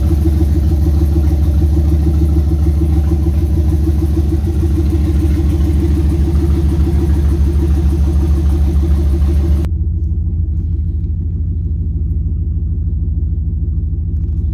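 Turbocharged Escalade V8 idling steadily while warming up from a cold start. About ten seconds in, the sound turns muffled and loses its top end, heard from inside the cab.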